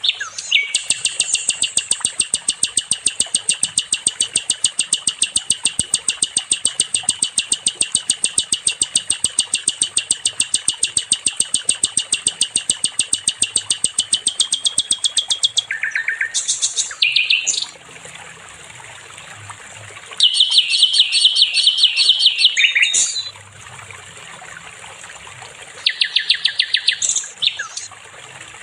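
Songbird sold as a sikatan londo, singing a long, fast trill of evenly repeated high notes, about six a second, for some fifteen seconds. It follows with a few short phrases and two shorter, denser trills.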